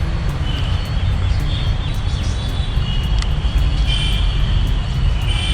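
Outdoor background noise: a steady low rumble throughout, with faint high chirps about two seconds in and again near the end.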